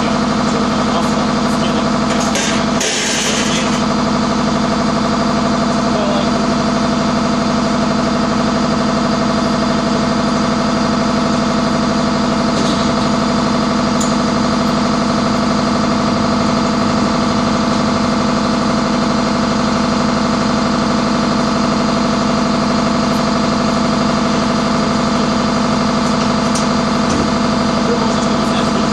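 Engine idling steadily at an even pitch, with a short hiss about three seconds in.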